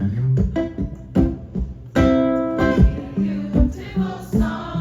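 Live band music in a short instrumental stretch of the song: guitar over a steady beat, with one note held for about half a second around two seconds in.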